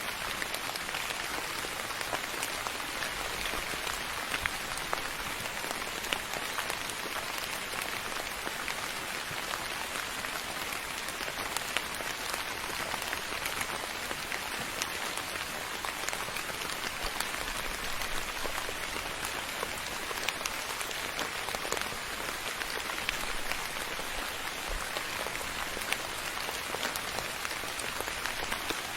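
Steady soft rain falling on a surface, an even hiss of many small drops with scattered individual drop ticks.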